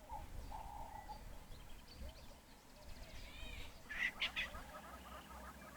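Wild birds calling: short calls in the first second, a few arched notes, then the loudest sharp notes about four seconds in, followed by a fast run of short repeated notes.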